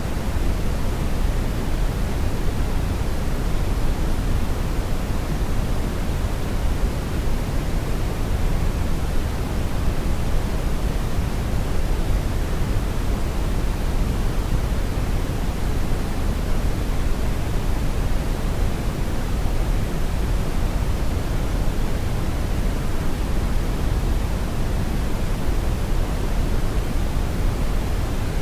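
Brown noise: a steady, even rumble of random noise, strongest in the bass and falling away toward the treble, with no change throughout.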